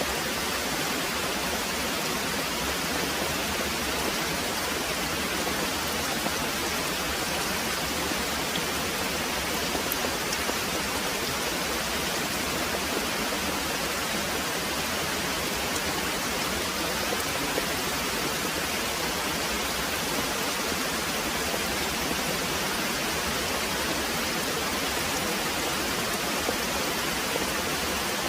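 Very heavy rain pouring steadily: an even, unbroken hiss with no thunder.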